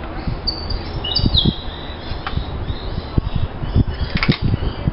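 A bird chirping a few short, high, falling notes about half a second to a second and a half in, with a brief high rattle near the end. Underneath are low bumps and rustling from hands handling material on a wooden workbench.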